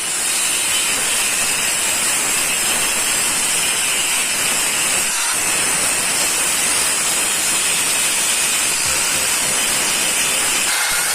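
Steady, loud hiss of a pressurised spray or air jet, dipping briefly about five seconds in.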